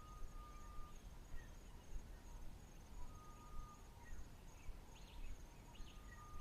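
A bird repeating a short, level whistle about every three seconds over a steady high insect trill, with a few faint chirps.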